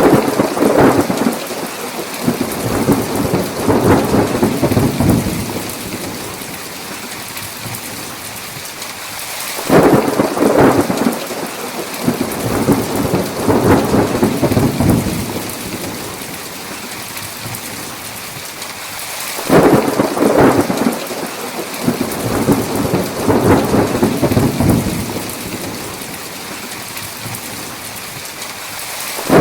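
Heavy rain falling steadily, with three claps of thunder about ten seconds apart. Each starts sharply and rumbles on for about five seconds.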